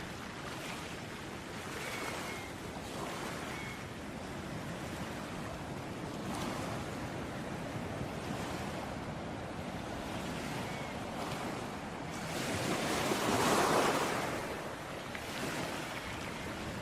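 Ocean surf washing steadily onto a shore, with one larger wave swelling and breaking about three-quarters of the way through.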